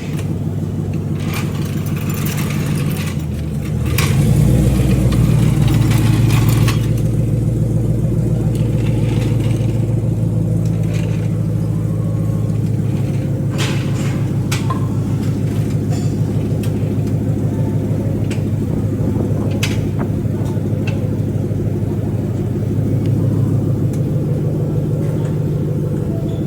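Three-valve V8 car engine running at low revs, with a deep steady note that picks up about four seconds in and holds. A few sharp clicks or knocks are heard over it.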